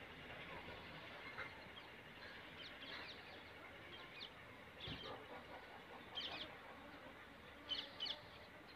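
Short, high bird chirps several times over a faint steady outdoor background, the loudest a quick pair near the end.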